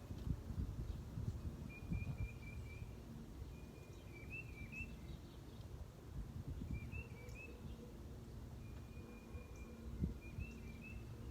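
A songbird singing the same short, high phrase over and over, about once every two seconds, over a low outdoor rumble.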